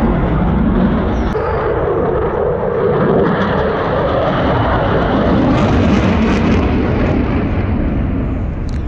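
Eurofighter Typhoon jet fighter's twin EJ200 turbofan engines running at display power as it flies overhead: a loud, continuous jet noise.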